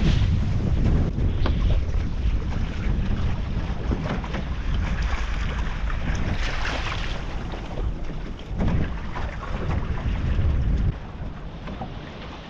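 Wind buffeting the microphone aboard a small sailing boat under way in a stiff breeze, with a rushing sea hiss and gusty swells. The wind noise drops off sharply about a second before the end.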